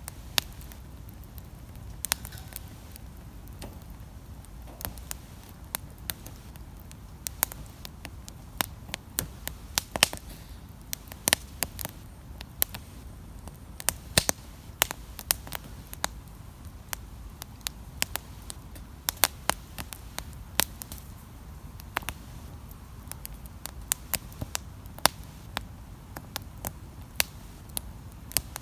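Wood campfire crackling: irregular sharp pops and snaps, a few of them loud, over a steady low rumble of the burning fire.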